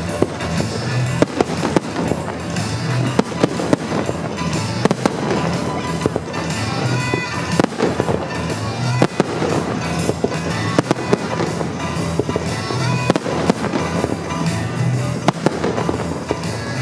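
Fireworks display: shells bursting in a rapid, irregular run of sharp bangs, over music played for the show.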